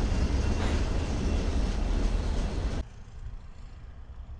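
Diesel freight train passing close by: a heavy low rumble of locomotives and rolling cars. About three seconds in it cuts off abruptly to a much quieter, duller rumble of another diesel locomotive consist moving past.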